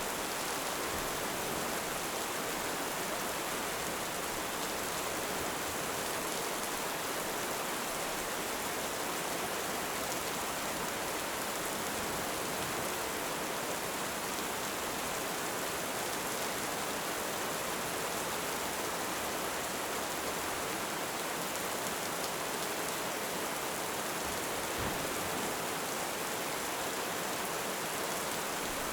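Heavy rain falling steadily, an even hiss that does not rise or fall.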